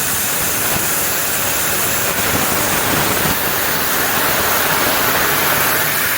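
Steady, loud rushing noise of an assembly workshop, even throughout with no clear rhythm or pitch.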